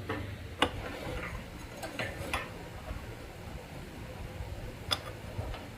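A handful of sharp clicks and taps over a low steady rumble: a strong one about half a second in, a cluster of three around two seconds, and another near the end.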